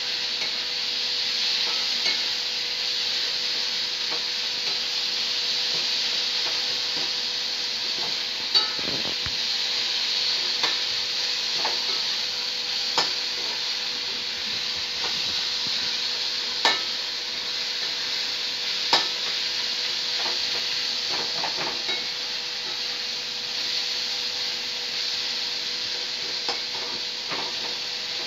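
Chopped tomatoes and onions sizzling in hot oil in an iron kadai, a steady frying hiss as the tomato masala base is sautéed. A spatula stirs and scrapes the pan, with a sharp knock against the metal every few seconds.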